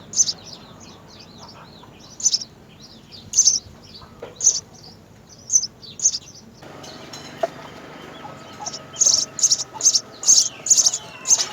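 House sparrows chirping: single short, high chirps about once a second, then a quicker run of chirps, about three a second, from about three-quarters of the way in.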